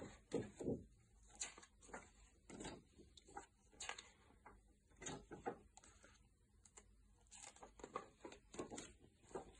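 Near silence in a small room, with faint scattered clicks and rustles.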